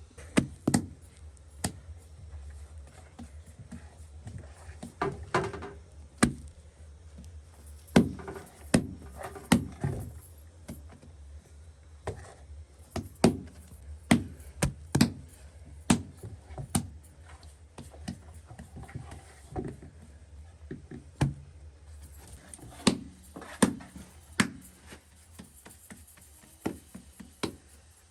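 Irregular knocks, taps and clatter of objects being handled, at times several within a second, with pauses between, over a low steady hum.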